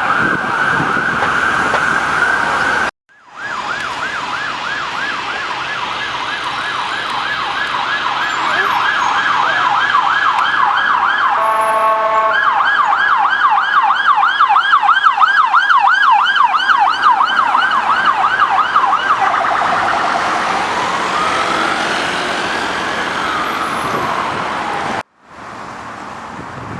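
Police car siren on an unmarked Vauxhall Astra: a fast yelp, sweeping up and down several times a second, broken briefly about nine seconds in by a short horn blast, then changing to one slow wail that rises and falls near the end. It is preceded by a steady siren tone from another vehicle that cuts off abruptly after about three seconds.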